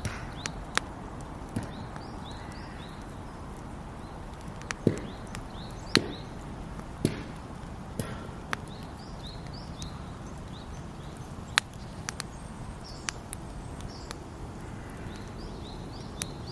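Wood fire crackling, with irregular sharp pops, a few louder ones around five to eight seconds in. A bird chirps in short runs of high notes every few seconds in the background.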